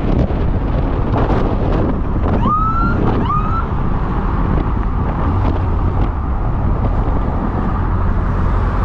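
Police siren giving two quick rising whoops, about half a second apart, a couple of seconds in, over a steady rumble of wind and road noise.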